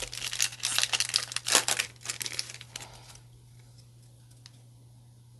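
Foil wrapper of a trading-card booster pack crinkling as it is torn open and handled, with dense crackling that stops about three seconds in, followed by a faint tick or two.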